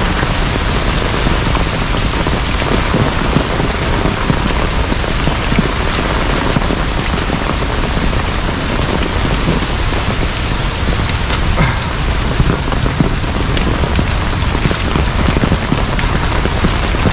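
Heavy rain falling steadily, a dense hiss with the patter of drops landing close by.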